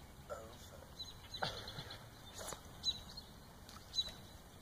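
Faint birds chirping, short high chirps every second or so, with a couple of faint clicks in between.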